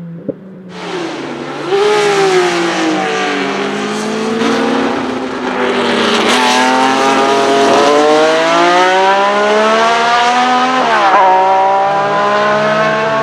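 Racing car engine pulling hard at high revs. Its pitch falls, then climbs through a long pull and drops sharply once near the end at a gear change.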